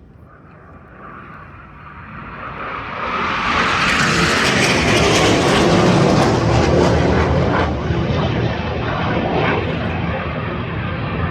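Military jet of a Swiss Air Force display flying past. Its loud rushing roar builds over about four seconds, peaks, then slowly fades.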